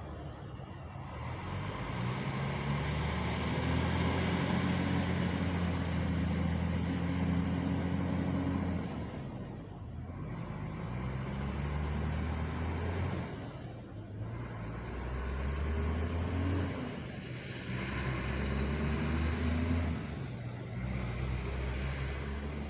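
Truck engines running, a low steady drone that swells and fades several times.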